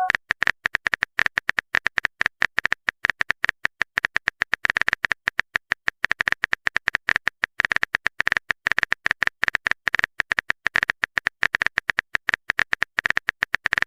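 Rapid, unbroken run of short tapping clicks, several a second: a phone-keyboard typing sound effect.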